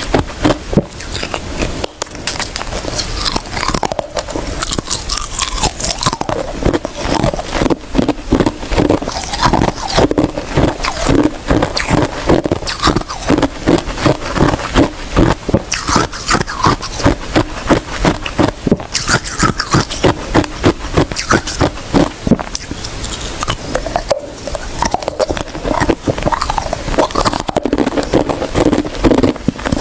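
Close-miked crunching of ice being bitten and chewed, a fast run of crisp cracks several per second.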